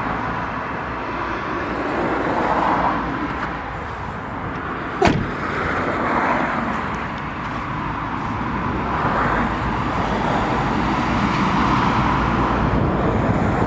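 Road traffic noise, with cars passing in several swells, and one sharp knock about five seconds in.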